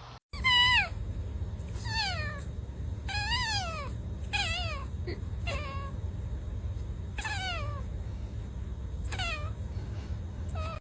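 A cat meowing repeatedly, about eight drawn-out meows that each slide down in pitch, over a steady low hum.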